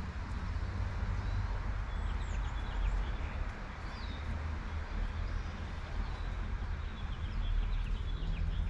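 Light rain falling steadily over a low rumble of traffic, with songbirds chirping in short calls throughout.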